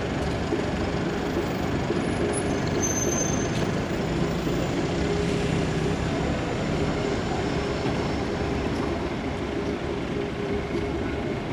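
Bus engine running steadily, with city traffic noise.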